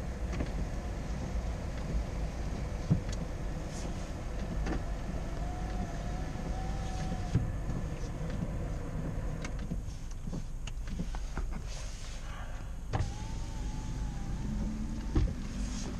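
Car idling, heard from inside the cabin as a steady low rumble, with a few light knocks. A faint wavering whine comes twice, about five seconds in and again about thirteen seconds in.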